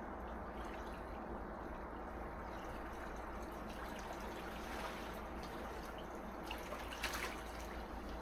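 Small sea waves lapping and washing on a beach, a steady wash of water with a brief fizzing splash about seven seconds in.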